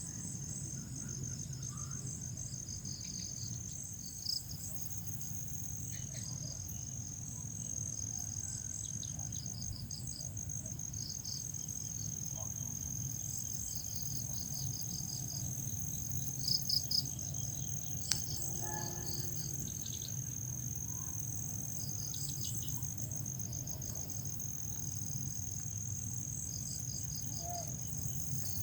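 Crickets chirping: one keeps up a continuous high trill while others chirp in short pulsed groups, over a low steady rumble. A few short ticks stand out, three in quick succession about two-thirds of the way through.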